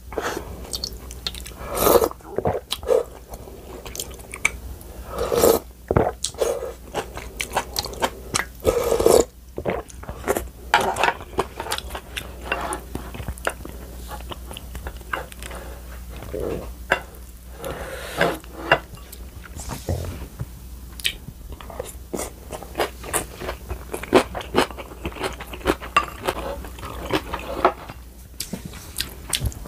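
Close-miked chewing and biting of rice, noodles and crunchy kimchi, with wet mouth noises and many small clicks of a spoon and chopsticks against the bowls.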